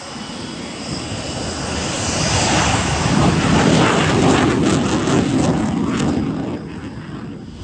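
An aircraft flying past. Its engine noise swells to a peak around the middle and fades away near the end.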